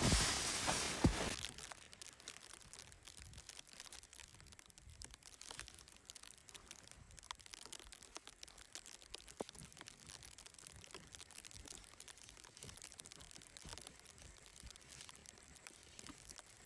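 A loud rush of noise for about the first second and a half, then faint, scattered crinkling and crackling handling noises.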